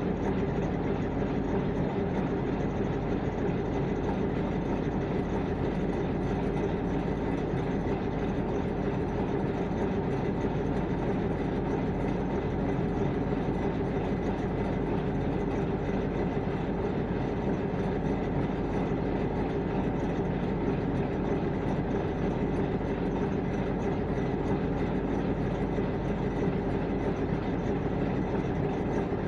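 Heavy vehicle engine running with a steady, unchanging drone.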